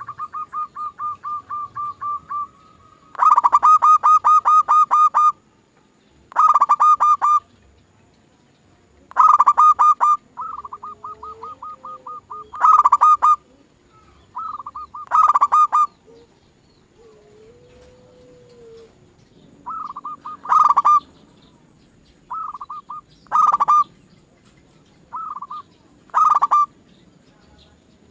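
Zebra doves (perkutut) calling: repeated bursts of rapid staccato notes, some loud and some softer, each burst lasting a second or two with short pauses between.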